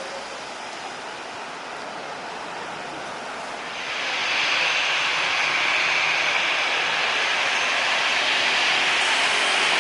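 Jet airliner engines, a steady rushing noise that grows sharply louder about four seconds in and then holds, with a faint high whine above it.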